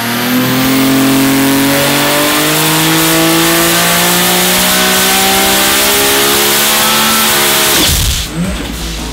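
Turbocharged Nissan RB30 3-litre SOHC straight-six on an engine dyno, making a full-load pull with its revs climbing steadily toward about 8900 rpm at 41 psi of boost. The engine shuts off abruptly about eight seconds in.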